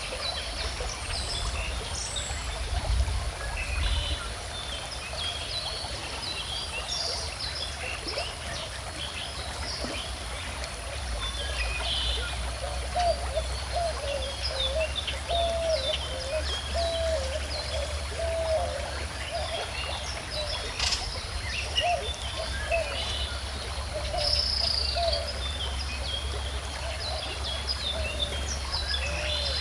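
Gently flowing river water with many small birds chirping and singing. From about the middle, a lower call repeats several times in a row.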